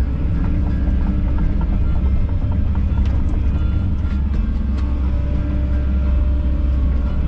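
Kobelco SK210 excavator's diesel engine running steadily, with a few faint clicks over it.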